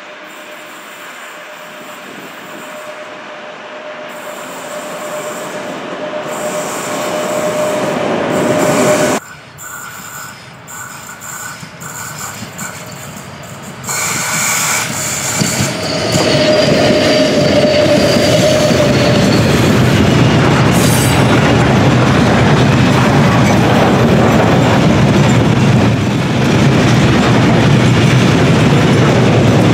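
Freight train hauled by a pair of VR Class Sr2 electric locomotives, then its loaded steel-coil flat wagons rolling past, loud and steady, with wheel noise on the rails. Earlier the train sound builds up gradually with a steady whining tone. It breaks off suddenly about nine seconds in and comes back louder about fourteen seconds in.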